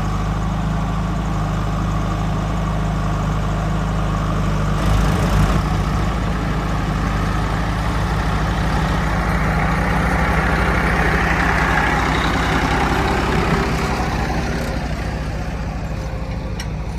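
Heavy diesel engine running steadily. About five seconds in its note changes with a brief bump, and it works harder for a few seconds in the middle before easing off near the end.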